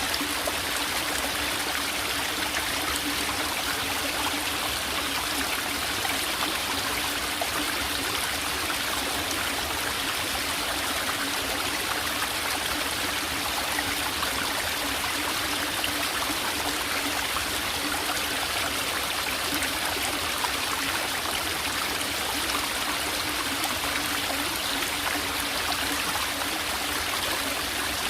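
Small forest stream trickling and babbling steadily, an even rush of flowing water.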